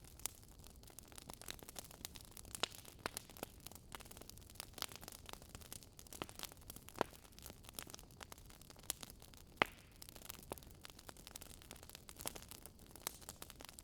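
Wood fire crackling: irregular sharp pops and snaps over a faint steady hiss, with a few louder pops.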